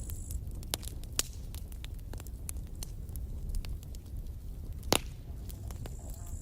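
Campfire crackling: burning wood gives off scattered sharp pops and snaps over a steady low rumble, with one loud pop about five seconds in.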